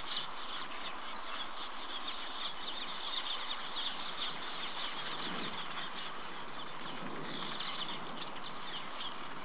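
Many small birds chattering with rapid high chirps over a steady hiss. The chatter thins out midway and picks up again near the end.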